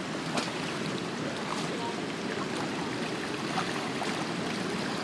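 Light rain falling over a steady rush of water, with scattered drops ticking close by.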